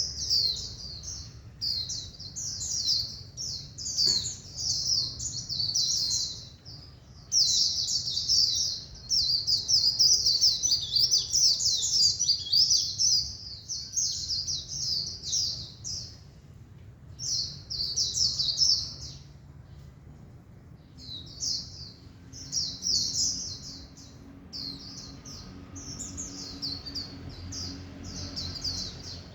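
White-eye (vành khuyên) singing its rapid, high twittering 'líu' song in bouts of a few seconds, with short pauses between them and a longer pause about twenty seconds in. A faint low hum sits underneath.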